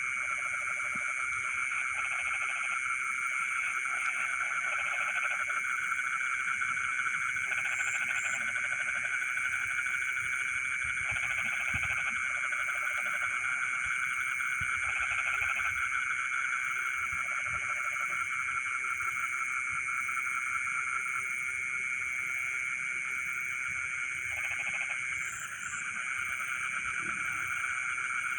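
A dense chorus of frogs calling in flooded rice paddies: a steady, continuous trilling din, with lower croaks coming in short bouts every second or two. A thin, steady high-pitched buzz sits above it.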